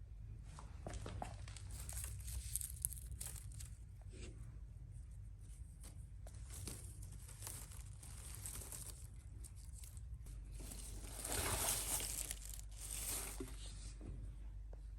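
Uneven rustling and crinkling, as of something being handled, with a louder stretch near the end.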